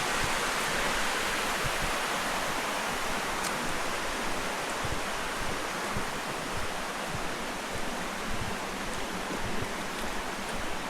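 Water rushing steadily down a waterfall's limestone cascades, a little quieter toward the end.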